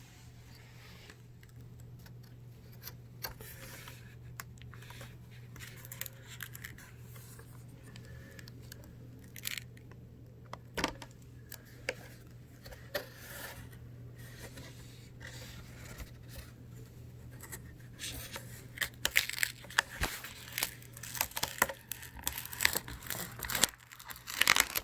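Plastic laptop screen bezel being pried off the lid: scattered clicks, crackles and tearing sounds as the clips and adhesive let go, growing denser and louder near the end, over a steady low hum.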